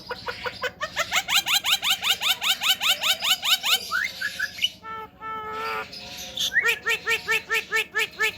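Male Javan myna singing: a fast run of repeated rising notes, about eight a second, then a short pitched call near the middle, and a steady series of repeated notes, about four a second, near the end.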